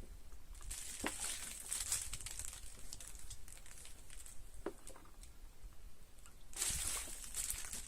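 Rustling and crinkling handling noise in two spells, the second near the end the louder, with a couple of light clicks or knocks between them.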